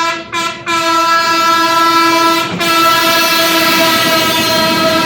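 Train horn sounding in a series of blasts: a short blast, another short one, then a long blast of about two seconds, then after a brief break another long blast that runs on.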